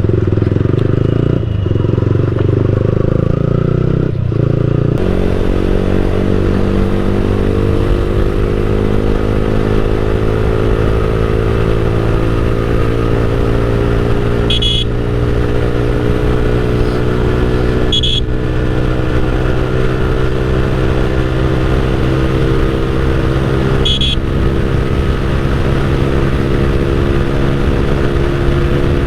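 Motorcycle engine breathing through a Leo Vince GP Corsa exhaust with only a honeycomb dB killer inside, running under way: an uneven, changing note for the first few seconds, then from about five seconds a steady drone that slowly climbs in pitch. Three brief high-pitched beeps come through, two in the middle and one later.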